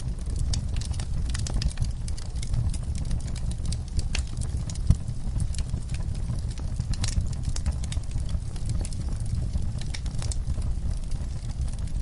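Wood fire burning in a fireplace: a steady low rumble of the flames with irregular crackles and snaps, one sharper pop about five seconds in.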